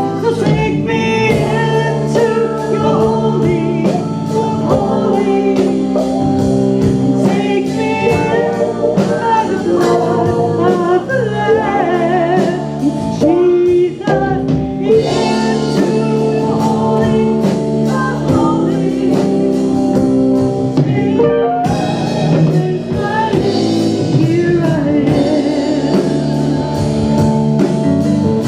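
Live praise-and-worship band music: singing over sustained band chords with a steady beat.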